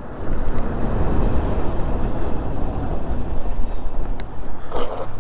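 Wind buffeting the microphone as an e-bike is ridden, with a steady rumble and tyre noise on a wet surface. There is a brief sharper noise near the end.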